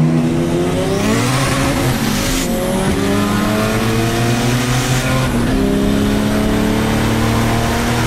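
Drag-built Honda Civic's engine accelerating hard, heard from inside the cabin. Its pitch climbs steadily, drops at an upshift about two and a half seconds in and again about five seconds in, and climbs again after each shift.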